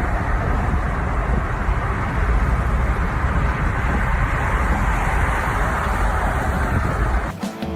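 A loud, steady rushing noise that cuts off suddenly near the end, where music comes in.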